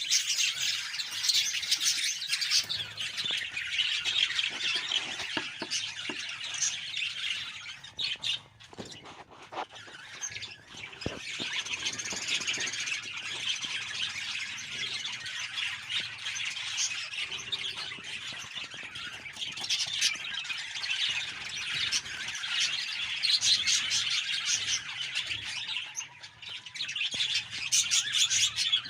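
Budgies chattering and squawking in a dense, continuous stream of rapid calls, thinning out briefly about a third of the way in.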